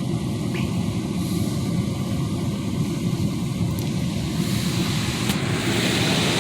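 Mark VII ChoiceWash XT automatic car wash running around the truck, heard from inside the cab as a steady low rumble. About four and a half seconds in, a higher hiss joins and grows.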